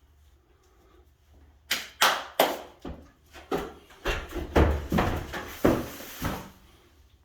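A run of about ten quick scraping strokes of a drywall tool across a mudded ceiling patch, working down small ridges in the topping compound. They start after a quiet second or two and stop about a second before the end.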